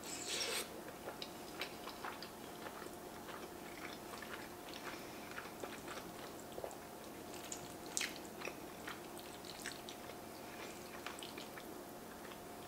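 Close-miked mouth sounds of eating creamy beef stroganoff with egg noodles: a wet slurp as a forkful goes in about half a second in, then soft chewing with scattered small clicks, the sharpest about eight seconds in. A faint steady hum of room tone lies under it.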